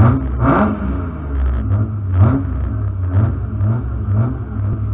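Rally car engine heard from inside the cabin, running while stationary with short throttle blips about once a second, the revs swelling and falling back each time.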